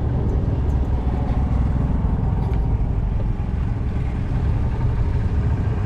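A tractor engine running steadily, a low, even chugging.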